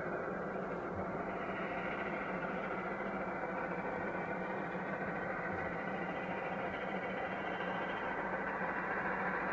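Narrow-gauge train running steadily: a continuous rumble with a constant low hum.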